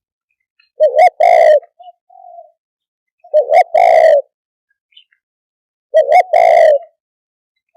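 Spotted dove cooing loudly: three phrases about two and a half seconds apart, each two short notes followed by a longer coo, with soft short notes between them.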